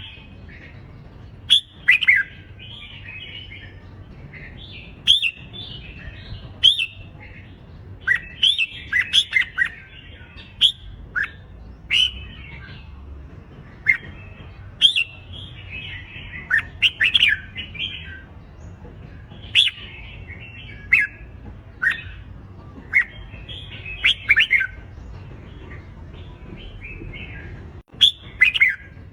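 Red-whiskered bulbuls singing competitively: short loud warbled phrases between sharp notes, coming every second or two.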